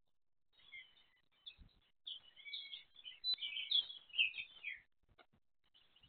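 A small bird chirping and twittering in quick high-pitched runs that start softly, grow busier and louder, and stop about a second before the end.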